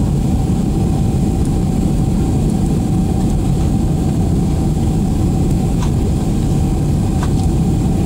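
Steady cabin noise inside a Boeing 767-300 airliner descending to land: a loud, even rumble of the engines and airflow, with a faint steady hum above it and a few faint clicks.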